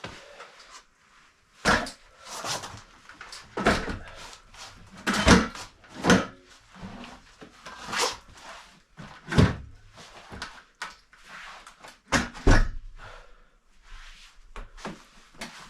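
A dozen or so irregular knocks and clunks, a few much louder than the rest, as exercise equipment loaded with weights is shifted and set down.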